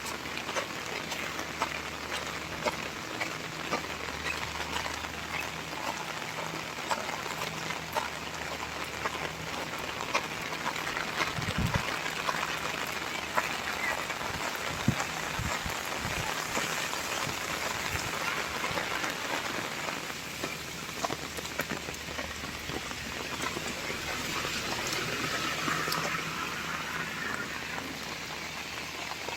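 Heavy rain falling, a steady hiss dotted with the ticks of single drops striking hard surfaces. A few low thumps come about halfway through.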